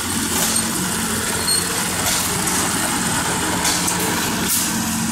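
An antique engine running steadily at a low, even pitch, with short hissing surges every second or two.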